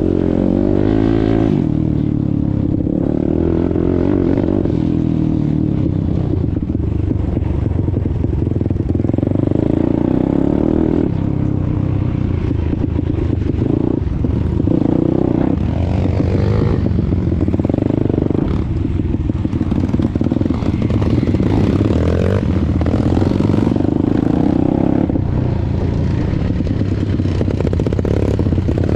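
Pit bike's 190 cc single-cylinder four-stroke Daytona engine under way, its pitch climbing and dropping again and again as the rider accelerates and backs off.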